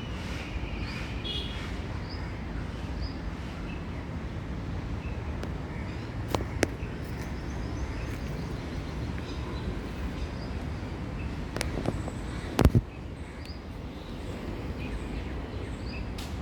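Outdoor ambience: a steady low rumble with faint, scattered bird chirps. Two sharp clicks stand out, one about six seconds in and a louder one about thirteen seconds in.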